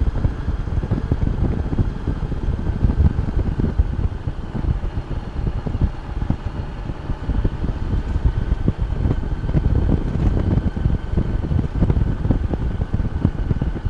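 Wind buffeting the microphone of a riding Honda Gold Wing motorcycle, a loud uneven rush, with the bike's engine and road noise running steadily underneath.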